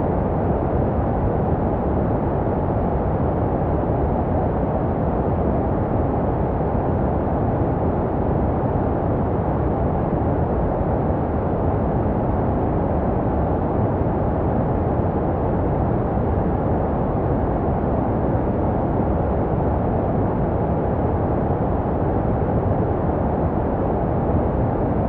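Continuous white noise for soothing a baby to sleep, filtered to a deep, muffled rush with little hiss on top and no rhythm, steady in level throughout.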